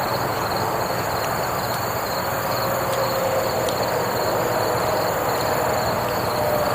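Steady rushing rumble of heavy vehicles passing nearby, with a faint whining tone that rises a little about three seconds in and a thin, wavering high trill above it.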